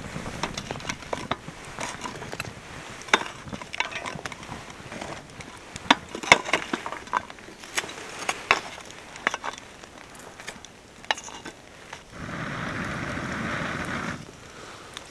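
Wood fire crackling, with irregular sharp snaps and pops, then a stretch of steady rushing noise about twelve seconds in.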